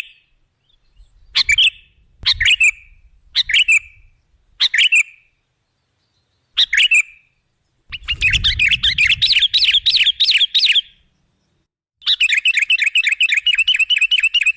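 Sooty-headed bulbul (kutilang) calling: several short separate calls, then two fast chattering runs of repeated notes at about four to five a second, from about eight seconds in.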